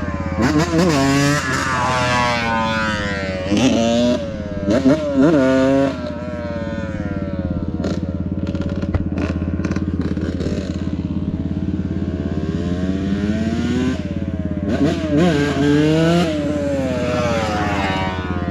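Dirt bike engine revving up and down in repeated rising sweeps through the gears, as in power wheelies, with a steadier, lower stretch in the middle. A steady low engine drone runs underneath.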